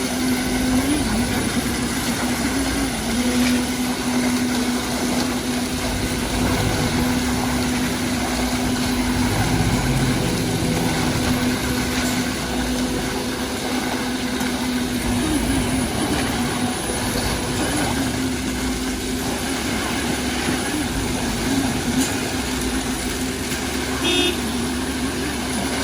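Heavy diesel truck engines of a concrete boom pump and mixer truck running steadily during a slab pour, with a constant droning hum that wavers slightly. A brief high chirp sounds near the end.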